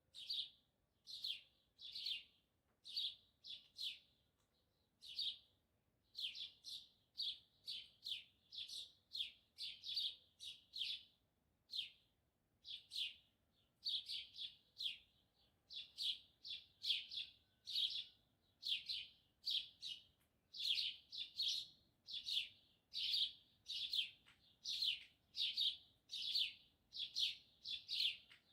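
A small bird giving short, sharp chirps over and over, about one to two a second, with a brief lull about four to six seconds in.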